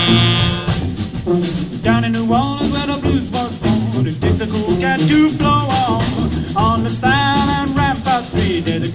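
Brass band playing an upbeat New Orleans-style tune: horn melody lines over drums keeping a steady beat.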